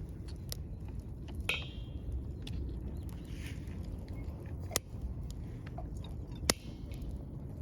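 Scrap-wood campfire crackling over a steady low rumble, with a few sharp pops as the wood bursts: the loudest about six and a half seconds in, another a little before five seconds.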